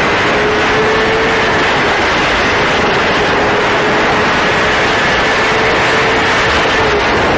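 Loud, steady vehicle noise: a continuous rush with a constant drone underneath that never rises or falls in pitch.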